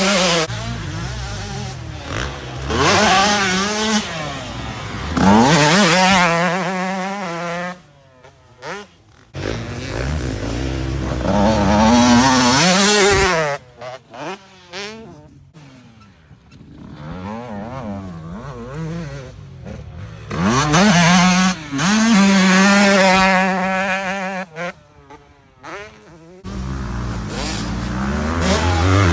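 Motocross dirt bike engine revving up and down again and again as it is ridden around a track. The sound drops away three times as the bike moves off, then comes back loud.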